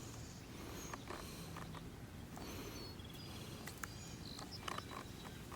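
Faint outdoor ambience with a few short high chirps and a quick trill from small animals, birds or insects, over a low hiss, with a few light clicks.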